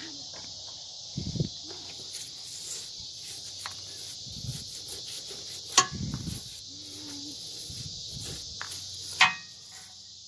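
Steady high insect chorus, with handling and scrubbing noises from work on a battery's terminals and two sharp clicks, the loudest sounds, about six and nine seconds in.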